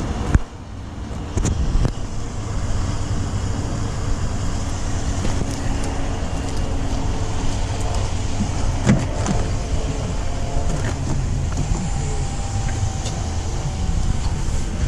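A sharp knock about half a second in, then a steady low rumble of car or traffic noise with a few faint clicks.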